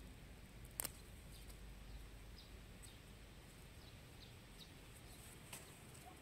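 Near silence with a few faint, brief bird chirps, a sharp click about a second in and a softer one near the end.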